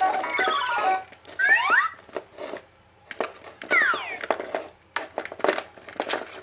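Electronic toy sound effects: a quick run of stepped beeping tones, then a rising sweep and later a falling sweep, with plastic clicks and rattles from the toy being handled.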